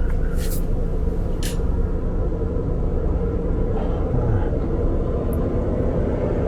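Heavy truck traffic passing on the highway: a steady low rumble of engines and tyres, with two short hisses about half a second and a second and a half in.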